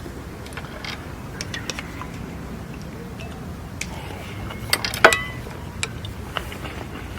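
A low steady hum with scattered small clicks and knocks, and a sharper cluster of clicks about five seconds in.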